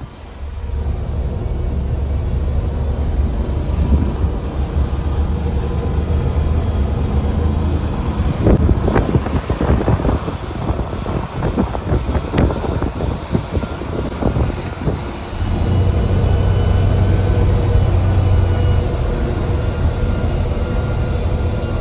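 Mercedes-Benz bus diesel engine running, heard from the driver's cabin. Its low drone eases for several seconds in the middle while a run of sharp knocks and rattles sounds, then it picks up again.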